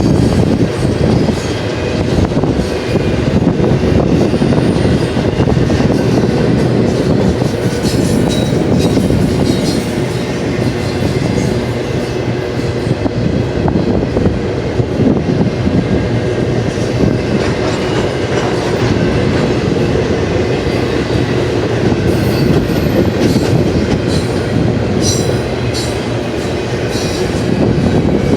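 Intermodal freight train cars rolling steadily past, wheels on the rails making a continuous loud rumble with some clickety-clack, and a few brief high-pitched wheel squeaks near the end.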